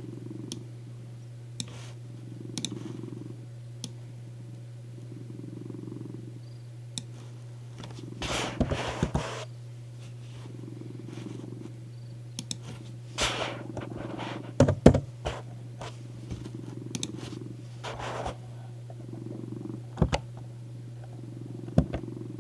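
Domestic cat purring on a lap, the purr swelling and fading with each breath about every three seconds over a steady low hum. Short rustles and crackles come in clusters, loudest around a third and two-thirds of the way through.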